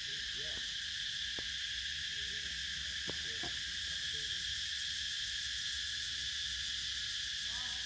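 A steady, high insect chorus from crickets or cicadas, holding an even level throughout, with a couple of faint clicks.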